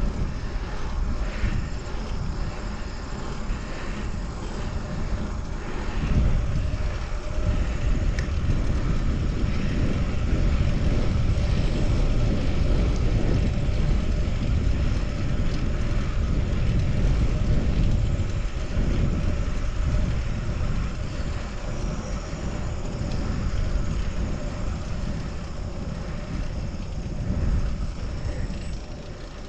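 Wind rushing over the camera microphone while cycling, mixed with road and traffic noise. It is a steady rumble that grows louder about six seconds in and eases somewhat in the second half.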